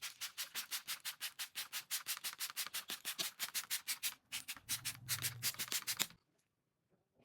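Fast back-and-forth scrubbing during a car wash, about six to seven even strokes a second, with a low hum joining in near the end. It cuts off suddenly about six seconds in.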